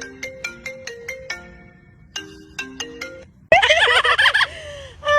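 Marimba-style phone ringtone melody, short plucked notes stepping up and down, playing in two runs with a short break. About three and a half seconds in, a loud warbling call that slides in pitch cuts in.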